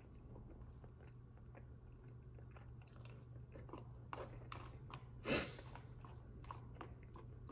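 A person chewing a mouthful of chicken enchilada bake with the mouth closed, with faint wet mouth sounds and small clicks of a fork in the bowl. There is one louder short noise about five seconds in, over a low steady hum.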